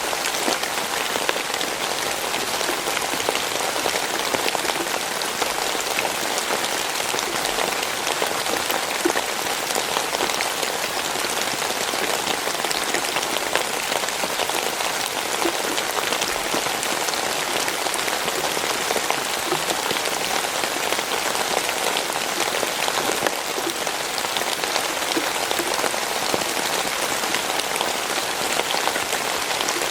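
Steady rain falling, a dense even hiss of drops with fine pattering ticks, unchanging throughout.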